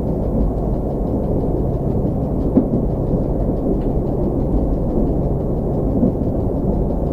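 SŽ series 813 diesel railcar running along the line, heard from the driver's cab: a steady low rumble of engine and wheels on rail, with a couple of faint knocks about two and a half and four seconds in.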